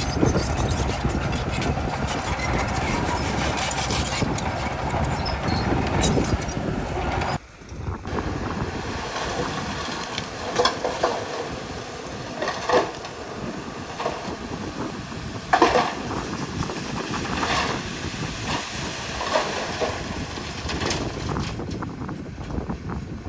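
Bulldozer working: its engine and steel tracks running loud and dense at first. After a sudden cut the machine is quieter, with scattered sharp clanks from the tracks and blade.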